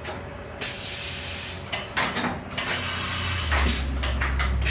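Fadal CNC vertical mill doing an automatic tool change: several bursts of hissing air from the pneumatic drawbar and tool changer, then a few quick clicks near the end. A steady low machine hum starts about three and a half seconds in.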